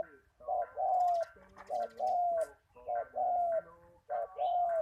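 Spotted dove cooing in the 'khu-ang' style that Thai dove keepers name: four repeated phrases of several low, slightly falling coos, one about every second and a bit, with short pauses between.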